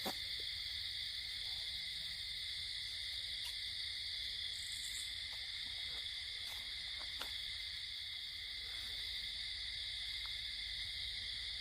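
Steady chorus of night insects: a continuous high-pitched trill that holds unchanged, over a faint low rumble, with a few faint clicks.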